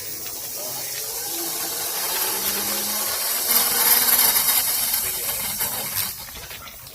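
Homemade hand tractor's motor running as it pulls a wheeled chair cart, under a loud rolling hiss that swells to a peak about four seconds in and then eases off.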